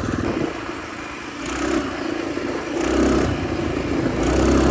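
Predator 212 single-cylinder four-stroke engine on a mini bike running and revving up in three short bursts, about a second and a half apart.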